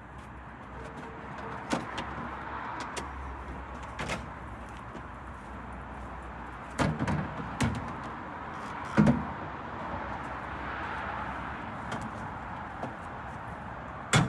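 A series of separate knocks and clunks, the loudest about nine seconds in, over a steady background hum.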